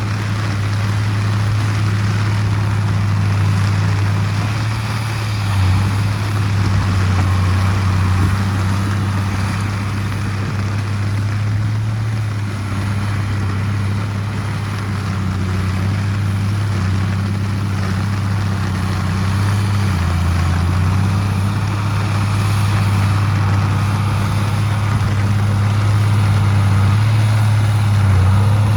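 Heavy diesel engine of earthmoving machinery running steadily under load, with small changes in engine speed now and then.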